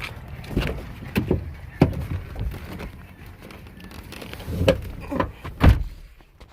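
A series of thumps and knocks over a low rumble. The rumble drops away shortly before the end.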